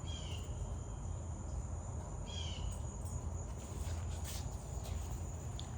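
Faint background ambience: a steady high-pitched hum with two short chirps about two seconds apart.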